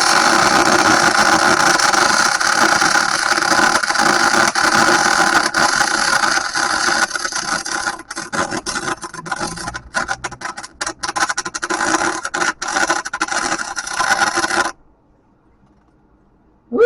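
Electric arc welder laying a continuous weld bead: a steady crackling hiss that starts abruptly, turns choppy and sputtering about halfway through, and cuts off suddenly after about 15 seconds. A single short click follows near the end.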